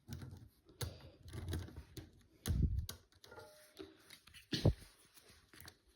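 Irregular small clicks and taps with a couple of soft knocks: a OO gauge model locomotive and its parts being handled.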